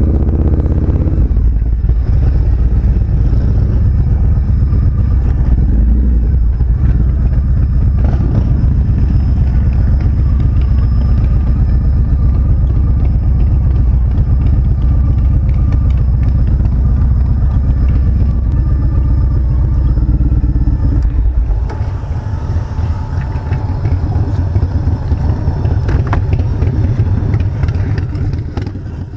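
Motorcycle running on the road, its engine rumble mixed with heavy wind noise on the microphone; about 22 seconds in the low rumble drops as it slows, and the sound fades out at the end.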